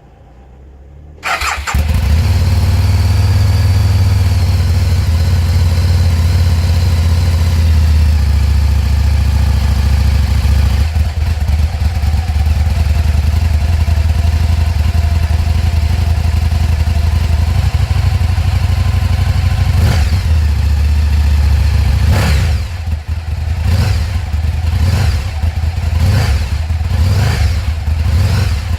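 Aprilia Tuono 1000's V-twin engine starting about a second in and settling into a steady idle. Near the end the throttle is blipped into short revs about once a second.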